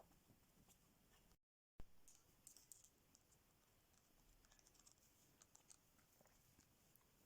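Near silence with faint scattered small clicks and taps, in two loose clusters, and a brief total dropout about one and a half seconds in.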